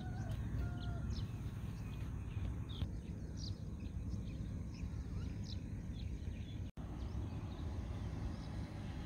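Outdoor ambience: a steady low background rumble with small birds chirping now and then.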